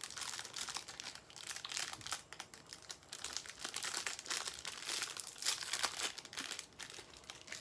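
Plastic snack wrapper crinkling and rustling as it is handled and torn open, in a continuous run of irregular crackles.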